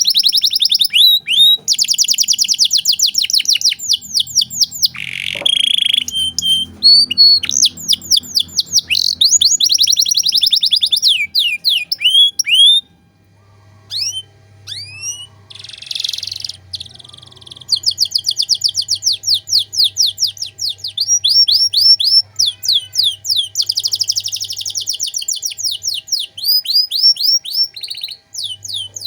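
Domestic canary singing: long, rapid trills of fast repeated sweeping notes, a short break about halfway through with a few slower single notes, then the rapid trills resume.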